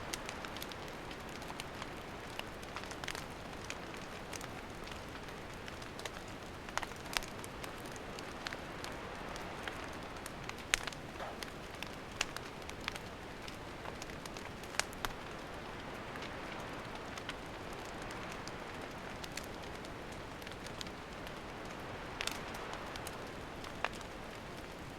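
Wood campfire burning: a steady hiss with scattered sharp pops and crackles, a handful of them louder than the rest.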